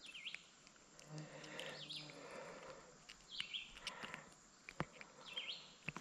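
Faint songbird song outdoors: a short chirping phrase with quick up-and-down pitch glides, repeated about four times, every second and a half to two seconds, with a couple of small sharp clicks near the end.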